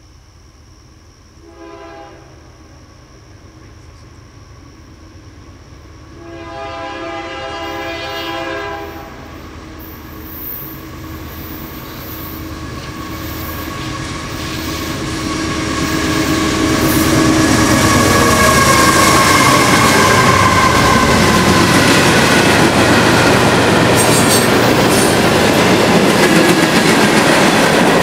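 Approaching freight train led by Union Pacific GE diesel locomotives sounding its horn: a short blast, a longer one, then a long blast that grows louder and drops in pitch as the locomotives pass. After that, the roar of the engines and the rolling rumble and clickety-clack of the cars going by close at hand.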